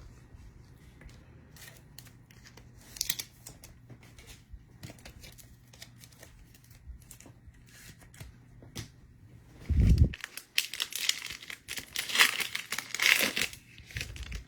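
Trading-card pack wrapper being torn open and crinkled, loudest in the last four seconds, after a dull low thump about ten seconds in.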